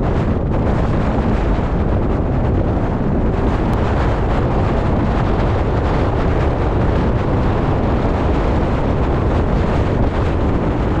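Strong storm wind blasting over the microphone, loud and steady, with a heavy low rumble of wind buffeting.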